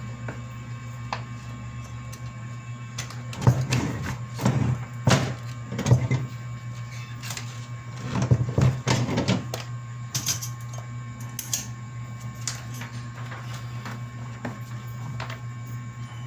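Irregular knocks and clattering over a steady low machine hum, in two busier clusters a few seconds apart.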